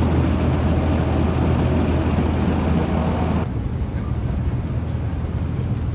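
Steady low rumble of a vehicle in motion, a deep hum with rushing noise over it that eases about three and a half seconds in.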